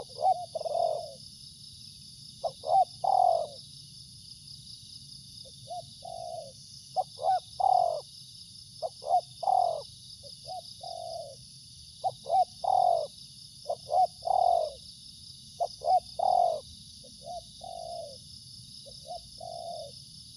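Spotted dove cooing: short phrases of two or three coos repeated every one to two seconds, loud phrases alternating with quieter ones, over a steady high-pitched hum.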